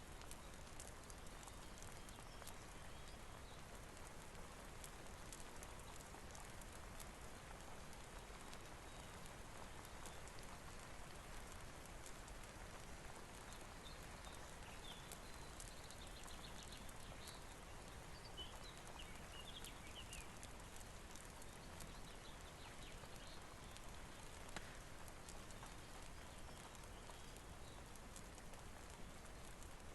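Faint, steady rain hiss mixed with the small sharp ticks and crackles of a wood fire. A few brief high squeaks come about halfway through.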